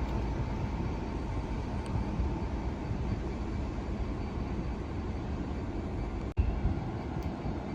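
A train at a railway station, a steady low rumble that cuts out for an instant about six seconds in and comes back with a sharp jump in level.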